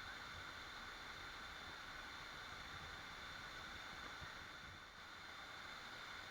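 Waterfall: a steady, faint, unbroken rush of falling water.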